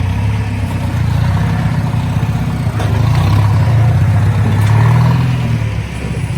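A large engine running with a low, pulsing rumble, revving up and easing back twice, then dropping off near the end, with a few faint metal clinks.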